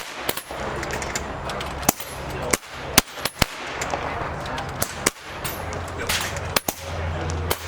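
PCP air rifles firing along a benchrest line: a dozen or so sharp shots from different benches at irregular intervals.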